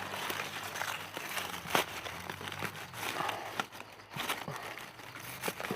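Dry leaf litter and undergrowth rustling and crackling, with a few sharper snaps, as someone moves through it on foot.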